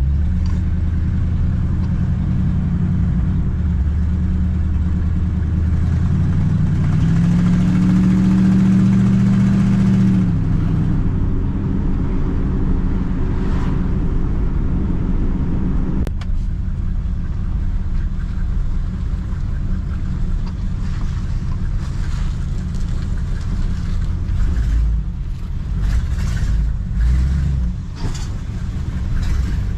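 1962 Ford Galaxie's V8 engine running, revving up about seven seconds in, holding briefly and dropping back to a lower speed.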